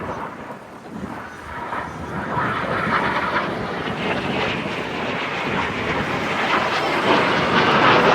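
A display aircraft's engines roaring as it flies past, the noise growing steadily louder as it approaches.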